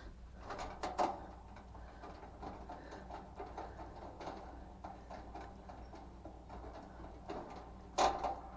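Small clicks and taps of hands working on metal parts of an opened clothes dryer, with a sharper click about a second in and another near the end, over a faint steady hum.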